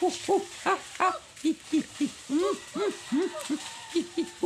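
A bird calling: a steady series of low hoots, about two to three a second, each note rising and then falling in pitch.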